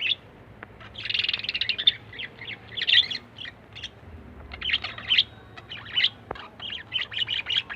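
Pet lovebirds chirping in rapid bursts of short, high calls, with a brief lull midway.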